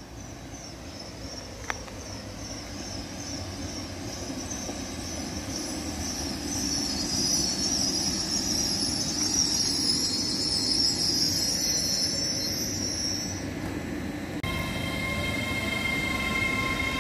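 GWR Class 800 intercity train approaching and running past, its rumble growing steadily louder with a high, wavering wheel squeal over it. Near the end the sound cuts abruptly to a steady whine of several pitches from the passing train.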